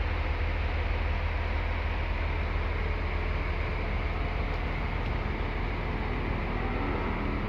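Scania K360iB diesel engine of a double-decker coach idling steadily with a deep, even rumble.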